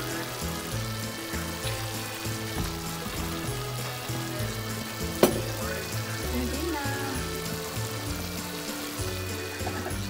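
Broccoli, cabbage, bell pepper, green beans and ground meat sizzling in a non-stick wok as they are stirred, with one sharp clack of the utensil against the pan about five seconds in.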